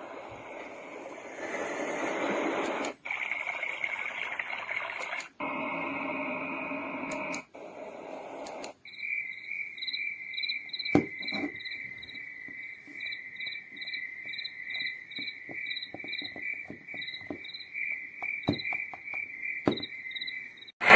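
HOMGEN baby white noise machine switching through its built-in sounds. Several short noise tracks each stop abruptly, then a recorded cricket chorus starts about nine seconds in: a steady, high, pulsing chirping.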